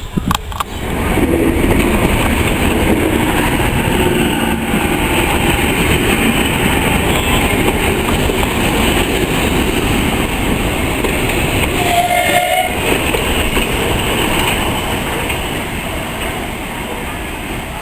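Heritage railway train running along the track: a steady rumble with wheel clatter on the rails. A short high toot sounds about twelve seconds in.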